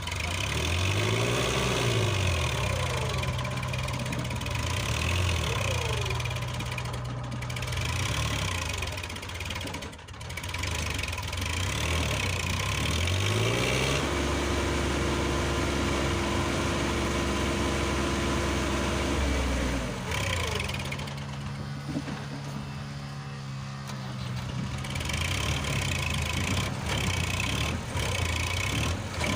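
Massey Ferguson tractor's diesel engine running, revving up several times and holding a steady pitch between the revs.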